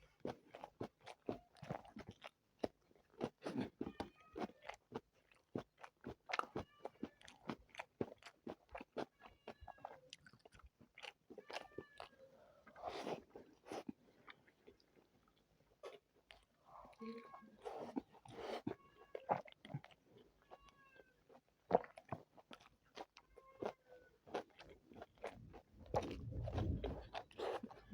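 Close-miked chewing and biting of spicy chicken biryani: a dense run of wet mouth clicks and lip smacks with crunchy bites. Near the end there is a low thump-like rumble.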